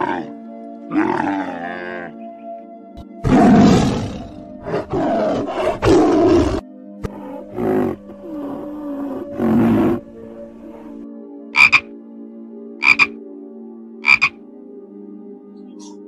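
Camel groaning and bellowing in several long, deep calls over steady background music, followed by three short, sharp animal calls about a second apart.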